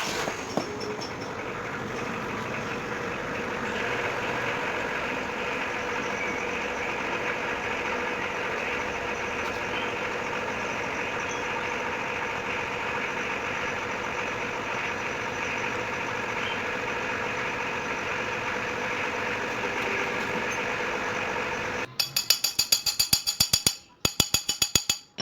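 Engine running steadily with an even hum, then a quick series of sharp clicks lasting about three seconds near the end.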